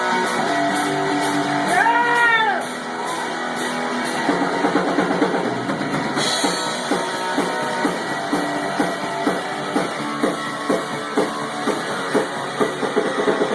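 A live rock band playing an instrumental passage on drum kit and guitar. About two seconds in, one note bends up and back down, and after that a quick, steady beat runs on.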